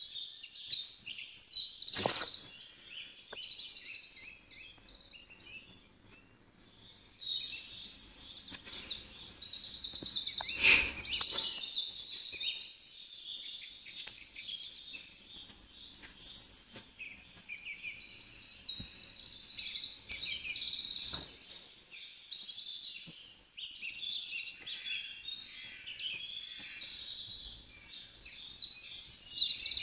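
Small birds chirping and trilling busily in quick high-pitched runs, with a couple of brief knocks among them.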